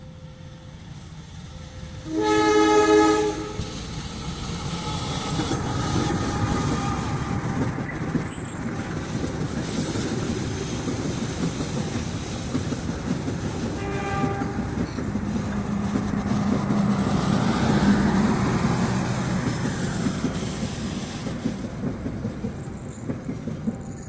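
Diesel locomotive-hauled train passing: a loud horn blast about two seconds in and a short second blast later, then the engine and wheels clicking over the rail joints grow louder as it goes by.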